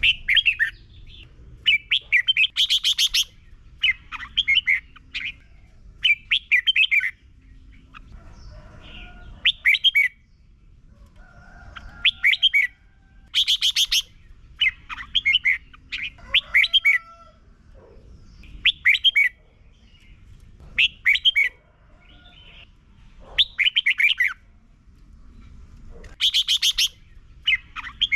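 Red-whiskered bulbul singing loud, quick warbling phrases over and over, a second or two apart with a few longer pauses. Fainter thin calls sound in the gaps between phrases.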